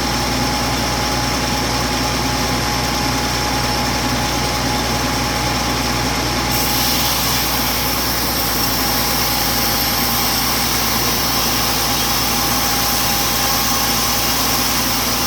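Sawmill saw running steadily with a continuous whine; about six seconds in a brighter hiss joins as the blade begins cutting lengthwise through a freshly felled, wet teak log.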